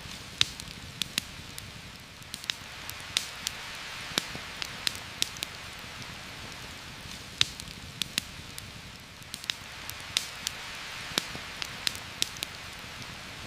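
Steady rain hissing over a campfire that crackles with irregular sharp pops, about two a second.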